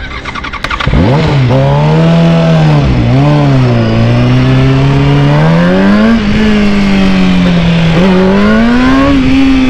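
Yamaha R6's inline-four engine coming in loud about a second in as the bike pulls away, its pitch rising and falling with the throttle. The revs climb twice, highest about nine seconds in.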